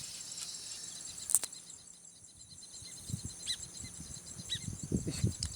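Insects trilling steadily in a high pulsing drone, with a few short bird chirps in the second half. A single sharp click about a second in, and low rustling and handling noise toward the end.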